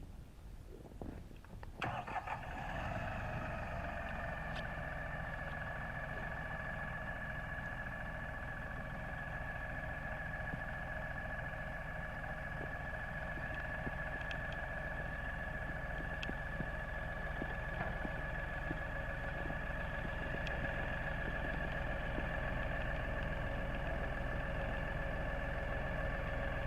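LS tractor's engine starting up about two seconds in after some knocking, then running steadily, with a steady high whine over the engine note.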